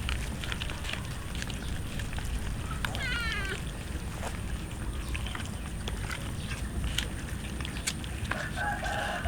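A cat gives one short meow about three seconds in, among scattered small clicks of cats chewing roast chicken, over a low steady rumble. Near the end a rooster starts crowing.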